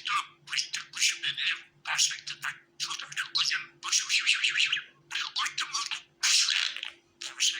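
Budgerigars chattering and warbling: a near-continuous run of short, scratchy calls in clusters about half a second long, with brief gaps between them.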